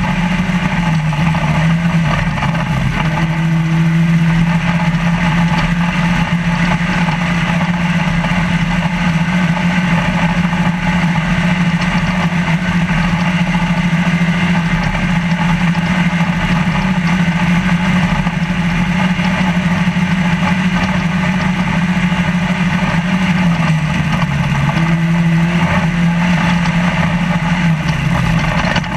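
Trophy Lite off-road race truck's engine heard from inside the cab at racing speed, held at steady high revs with brief dips in pitch about a second in, about three-quarters of the way through and near the end, under a constant din of dirt, wind and chassis noise.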